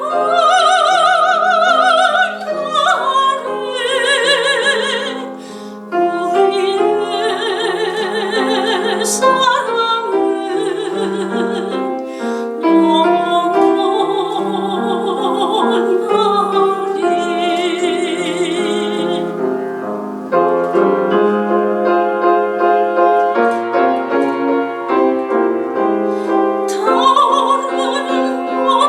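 Soprano singing a Korean art song (gagok) with wide vibrato over piano accompaniment. In the second half the voice drops out for a short piano-only passage, then comes back near the end.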